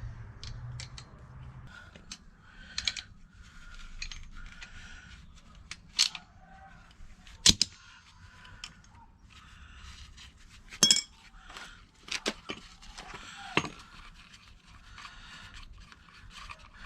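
Metal parts and hand tools clinking, knocking and scraping as shock absorber mount hardware (nut, cup, sleeve) is handled, with a handful of sharp clinks, the loudest around the middle.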